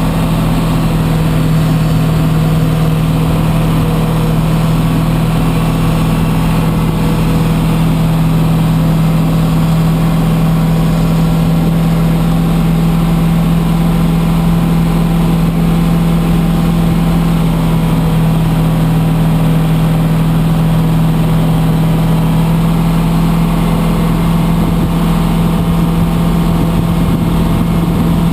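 Aircraft pushback tug's engine running at a steady speed while pushing the airliner back: a constant, unchanging drone.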